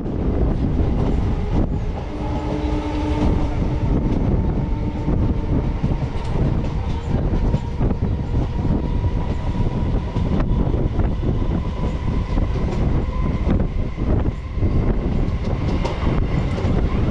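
Electric multiple-unit suburban train running at speed, heard from its open doorway: a loud rumble and rush of air with wheels clattering over rail joints. The train's horn sounds once for about three seconds, a couple of seconds in.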